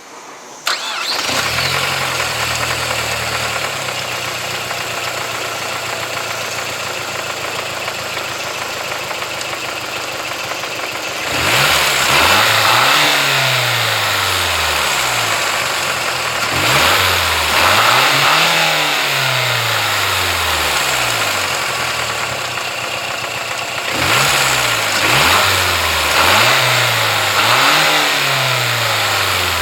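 Mazda 6 MPS's 2.3-litre turbocharged four-cylinder engine comes in suddenly about a second in and idles steadily. It is then revved up and let fall back several times: a couple of longer revs, then a run of short quick blips near the end.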